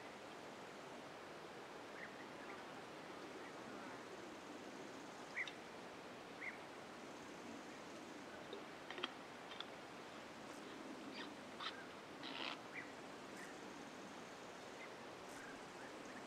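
Quiet forest ambience: a faint steady hiss with a dozen short, scattered chirps and clicks, most of them in the second half.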